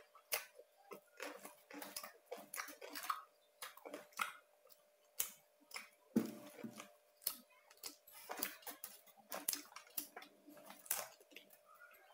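Mouth chewing crunchy roast pork (Bangka saucu) close to the microphone: irregular crisp crunches and crackles, several a second, in uneven runs.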